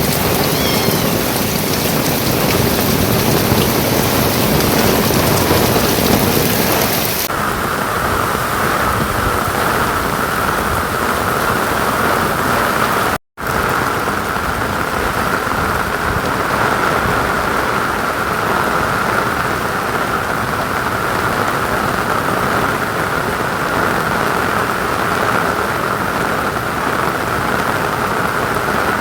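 Heavy rain falling steadily, with a low rumble under it for the first several seconds. The sound changes abruptly about seven seconds in and cuts out for a split second about thirteen seconds in, then the rain carries on.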